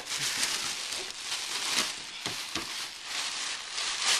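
Paper rustling and crinkling with a few sharp crackles as a gift box is dug through and unpacked.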